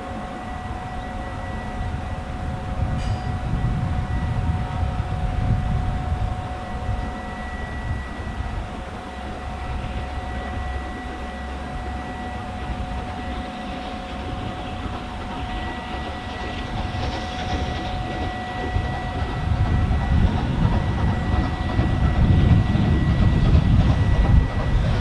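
Heritage railway train running on the line, a continuous rumble that grows louder toward the end.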